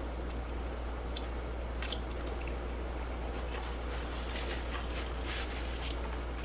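Close-miked chewing of a soft filled doughnut: wet, smacking mouth sounds and small clicks, busier in the second half, over a steady low hum.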